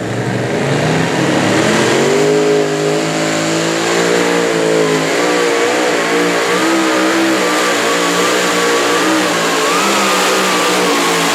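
International pulling tractor's engine revving up over the first couple of seconds, then running hard at high revs with a wavering pitch as it pulls the sled. A thin high whine rides above it from about halfway in.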